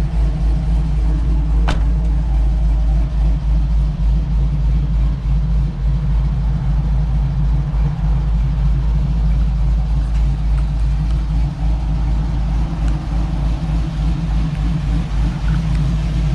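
Cammed LS V8 in a 1985 Chevy K10, idling steadily with a low, slightly pulsing rumble through dual Flowmaster exhausts. A single sharp click comes about two seconds in.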